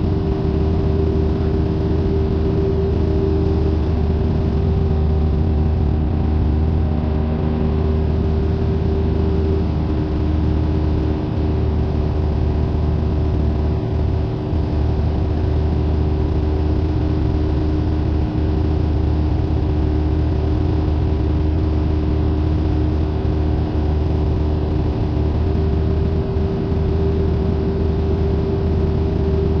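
Cessna 172N's four-cylinder Lycoming piston engine and propeller running at a steady power setting, a loud, even drone with a constant hum and no change in pitch.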